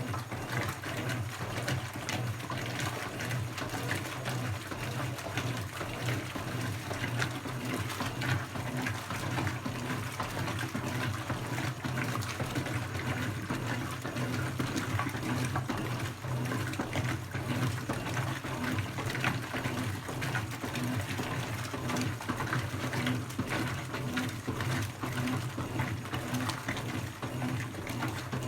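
Brastemp BWK17 17 kg washing machine running a quick cycle: a steady motor hum mixed with the sound of water moving inside the machine.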